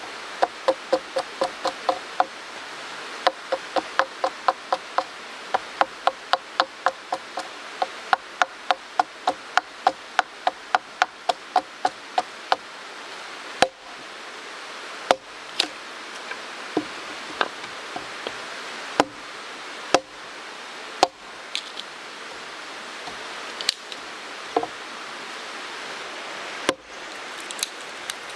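Chopping on wood: quick, even strikes about three to four a second for the first twelve seconds or so, then single strikes one to two seconds apart. The steady rush of the mountain stream runs beneath.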